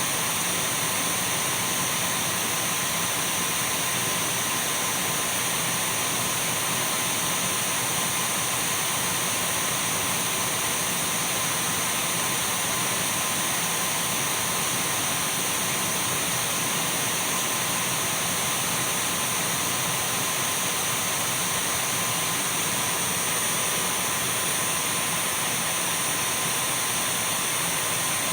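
Dyson V12 cordless stick vacuum running steadily: an even whooshing motor and airflow noise with a thin high whine, unchanging throughout.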